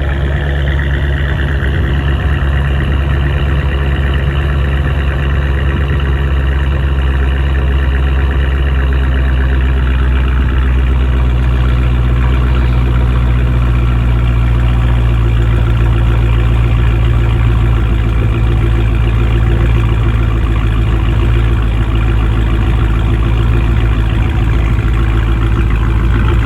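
Dodge Challenger Scat Pack's 392 HEMI V8 idling steadily through Black Widow aftermarket mufflers, a loud low exhaust note.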